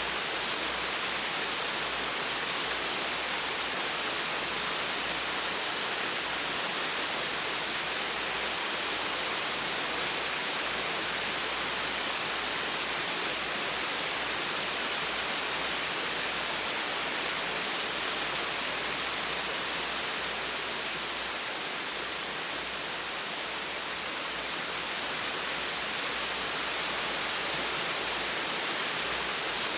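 Small waterfall splashing steadily, an even rushing hiss of falling water with no break.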